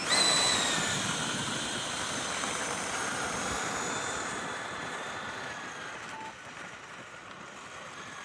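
Electric ducted fans of a Freewing F-14 64mm RC jet whining. The whine jumps up at the start, then slowly drops in pitch and fades away.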